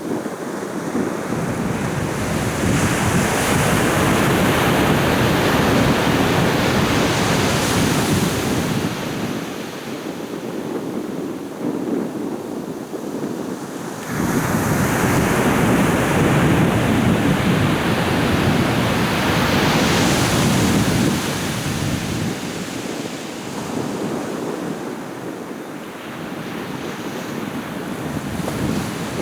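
Sea waves breaking and washing up a beach in two big surges, the first building near the start and the second coming in suddenly about halfway through, with wind blowing across the microphone.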